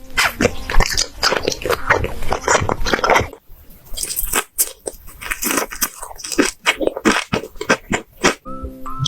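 Close-miked eating: rapid, irregular biting and crunchy chewing, with a short lull about three and a half seconds in before the chewing resumes.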